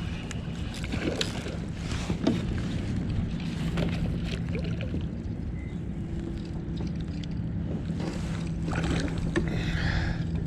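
Wind and water rumble around a kayak under a steady low hum, with a few light knocks and clicks from handling fishing gear in the boat.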